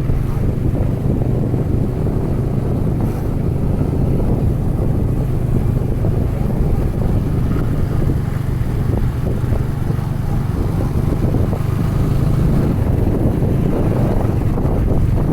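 Yamaha R15 V3 motorcycle riding at steady speed: the engine's even hum under heavy wind rumble on the microphone.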